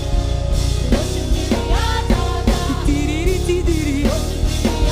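Live gospel worship band playing between sung lines: a full drum kit keeps a steady beat under keyboard and bass, with singers' voices and ad-libs over the top.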